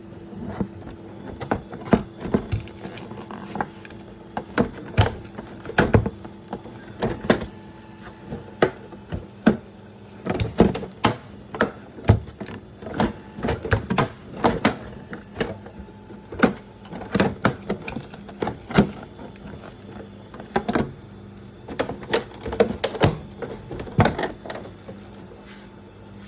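Irregular clicks and knocks of a hard plastic RC truck body shell being handled and pressed down onto its chassis.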